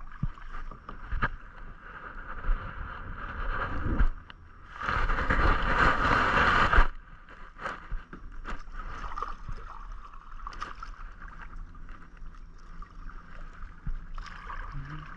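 Kayak paddling: paddle blades dipping and water splashing and dripping, with scattered sharp clicks and knocks. A louder rush of water lasts about two seconds in the middle.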